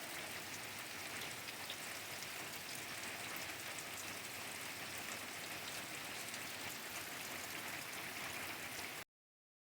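Steady rain falling, a fine patter of drops over an even hiss; it cuts off suddenly near the end.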